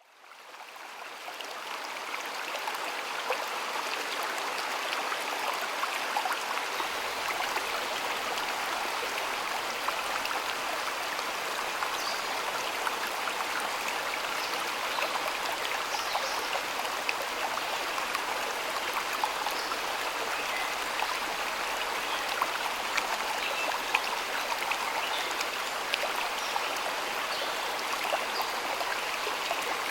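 Stream water flowing and splashing in a steady rush, with many small bright droplet sounds. It fades in over the first couple of seconds.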